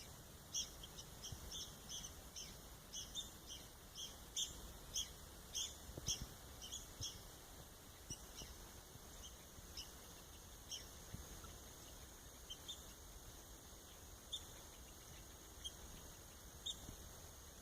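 Red-cockaded woodpeckers calling to each other with short, high notes, two to three a second for about the first seven seconds, then only now and then.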